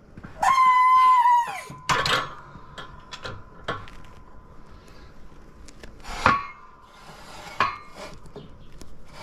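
Steel transmission parts handled on the bench: a loud, high metallic squeal lasting about a second near the start, then a few clanks with a faint ring lingering after them.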